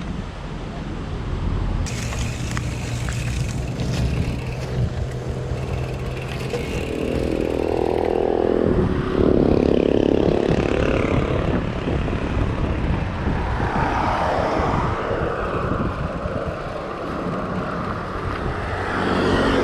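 Road traffic: motor vehicle engines running and passing, with a louder pass about halfway through.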